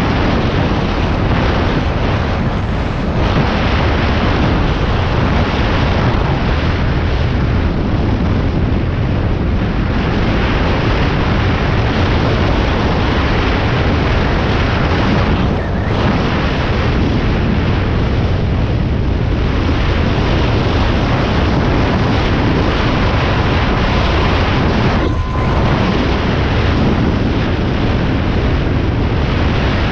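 A motor vehicle engine running continuously, a loud dense rumble with heavy low end and the noise of air buffeting the microphone.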